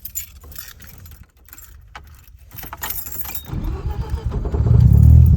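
Keys jangling and clicking, then about three and a half seconds in a Mazda RX-7's 13B rotary engine cranks, fires and settles into a loud, steady idle.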